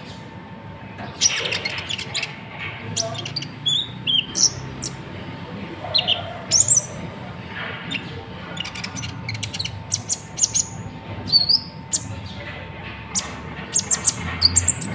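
Konin natuna, a small songbird, calling in a rapid, irregular string of short high-pitched chirps, clicks and quick whistled slurs.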